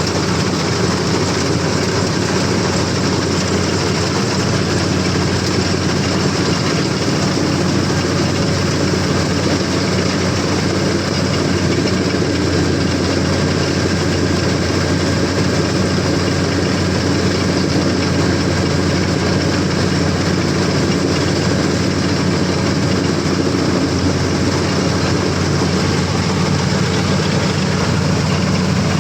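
CLAAS combine harvester's diesel engine running steadily under load while cutting paddy, a continuous low drone with a mechanical rattle over it.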